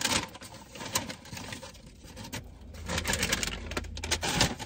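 Tortilla chip crunched and chewed close to the microphone: a run of dense, irregular crisp crackles.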